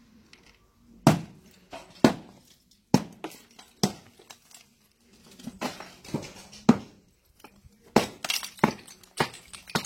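A series of sharp knocks and clinks, about a dozen at irregular intervals, some with a brief ring.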